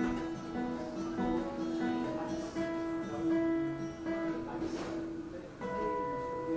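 Acoustic guitar playing the song's closing instrumental, with no singing. About five and a half seconds in it strikes a chord that rings on.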